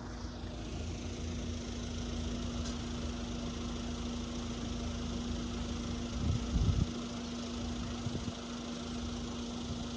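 Vehicle engine idling steadily, a constant hum over a low rumble, with a short louder low rumble about six and a half seconds in.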